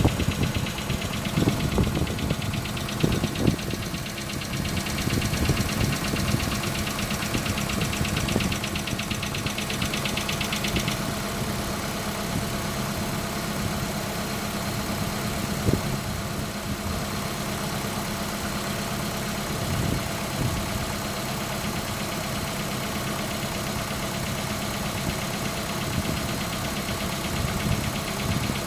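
Hyundai Accent MC petrol engine idling during warm-up with a distinct fast tapping knock that resembles valve tapping. Repeated service-station visits put it down to a worn camshaft timing chain. The fast tapping stops about a third of the way in, and the engine keeps running.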